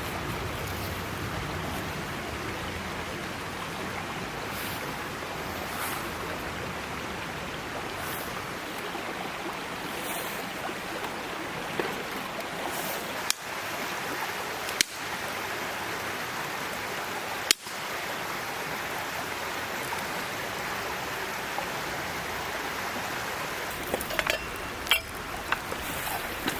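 Small mountain stream babbling steadily. A few sharp cracks come about halfway through, and several more close together near the end.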